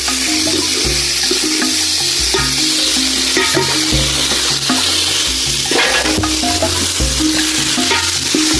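Food frying in a pan, a steady sizzling hiss, with background music and a stepping bass line laid over it.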